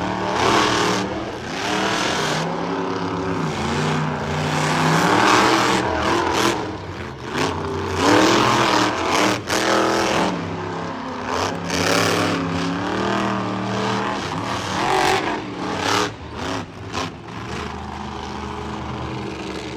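Monster truck engines revving hard under racing, their pitch climbing and falling again and again, then settling to a steadier, lower running near the end.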